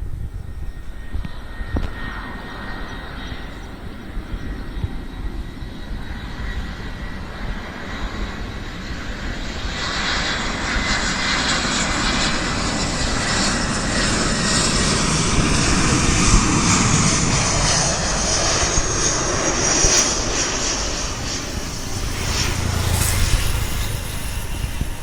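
Airbus A319 airliner's jet engines passing close by, the noise building from about a third of the way in, loudest past the middle with a high whine, then easing off near the end.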